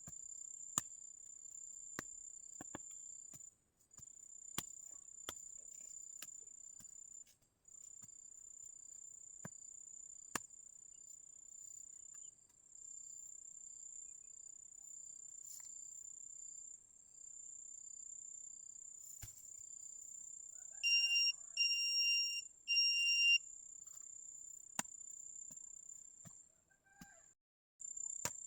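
Insects trilling steadily at a very high pitch, with scattered small clicks. About three-quarters of the way in, three short electronic beeps sound in quick succession, louder than the trill.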